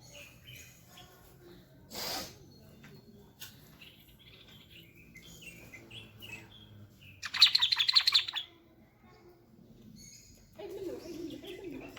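White-eared bulbul singing: scattered short chirps, then a loud, rapid run of notes about seven seconds in that lasts roughly a second. A brief rustling burst comes about two seconds in.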